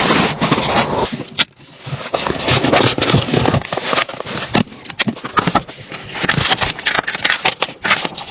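Dense, irregular crackling and clicking with some scraping, dropping into a brief lull about one and a half seconds in.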